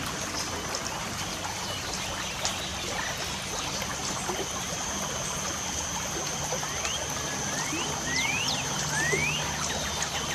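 Light rain falling with a steady trickle of water, while birds chirp: a few quick rising chirps come between about seven and nine seconds in. A thin, steady high-pitched tone sits above it through the second half.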